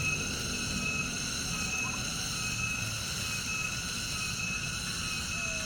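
Steady outdoor ambience: a constant low rumble under several steady high-pitched drones.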